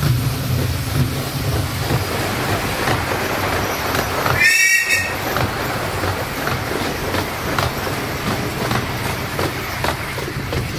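Miniature-railway train running through a tunnel: a steady rumble of carriages and wheels on the rails, with a brief shrill, high-pitched tone about four and a half seconds in.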